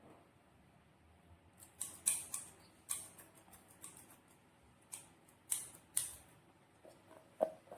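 Hands working slime and balloons: irregular sharp clicks and wet crackles, scattered from about two seconds in.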